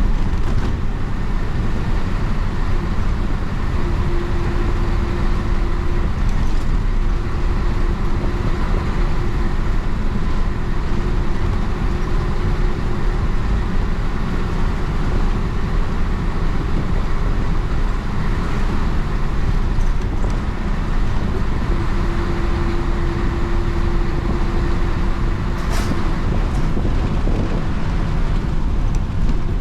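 Isuzu BXD30 bonnet bus's DA640 six-cylinder diesel engine running under way, heard from inside the bus as a steady, loud low rumble. A steady whine comes and goes several times, and there is one sharp click near the end.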